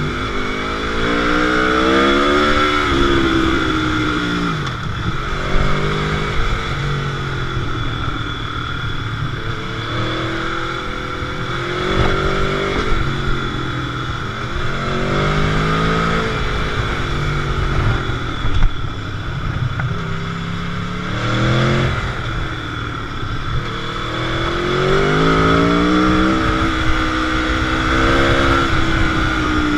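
Sport motorcycle engine heard on board, repeatedly accelerating and rolling off, its pitch climbing and dropping every few seconds, over a steady rush of wind.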